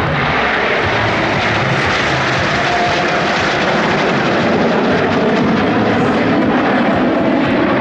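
Aircraft engine noise at an airshow: a loud, steady rush that grows slightly louder in the second half.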